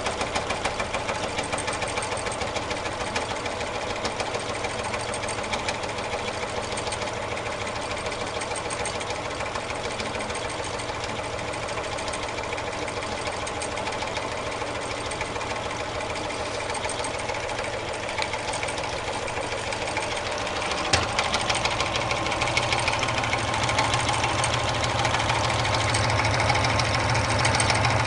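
Homemade four-cylinder double-acting alpha Stirling engine running with a fast, even mechanical clatter. About three-quarters of the way through there is a click, and after it the running gets a little louder, with a deeper hum added.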